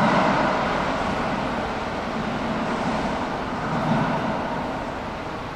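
Kintetsu Urban Liner limited express electric train running away from an underground platform into the tunnel, its running noise fading steadily as it goes.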